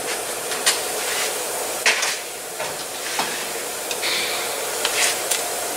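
About half a dozen sharp metallic clinks and taps of hand tools on steering-rack fasteners, the loudest two in the first two seconds, over a steady background hiss.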